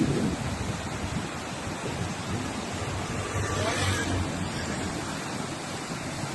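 Steady rushing noise of floodwater, an even roar without a rhythm.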